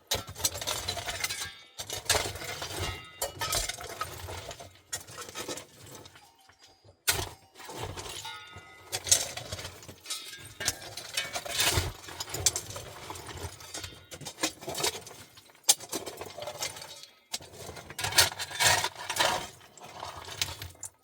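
Irregular clinks and knocks of hard objects being handled, with rustling in between.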